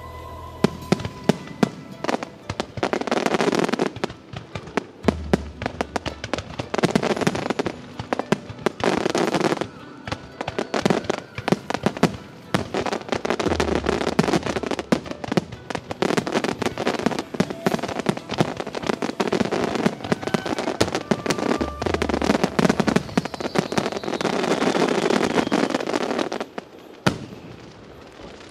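Starmine fireworks barrage: a rapid, continuous string of sharp bangs from aerial shells bursting in quick succession, in swelling waves of volleys.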